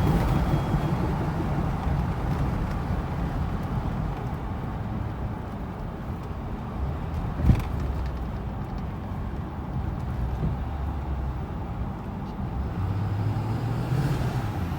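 Ford 6.4 Powerstroke twin-turbo V8 diesel running while the pickup is driven, with one sharp thump about halfway through; near the end the engine note rises and grows louder.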